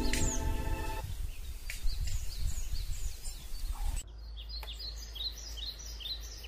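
Small birds chirping, many short downward-sliding chirps, over a steady low outdoor rumble.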